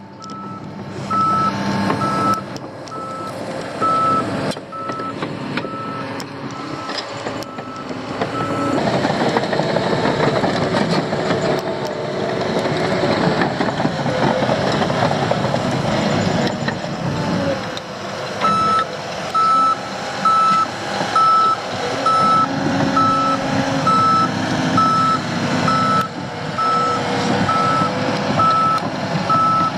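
A heavy construction vehicle's reversing alarm beeping in an even series over its engine running. The beeping stops about nine seconds in while the engine grows louder, and starts again a little past halfway.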